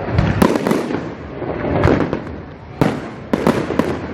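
Aerial fireworks bursting in quick succession, about two bangs a second, each followed by crackling and a rumbling echo.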